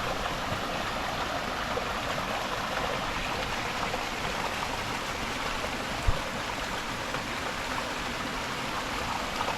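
Stream water running steadily at the head of a waterfall, with one brief thump about six seconds in.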